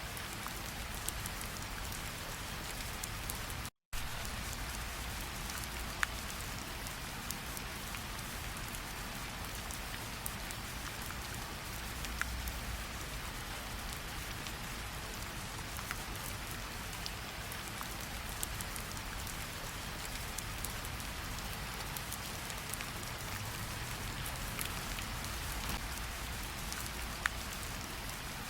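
Steady rain falling in a tropical forest, an even hiss with a few louder single drops standing out now and then. The sound cuts out completely for a split second about four seconds in.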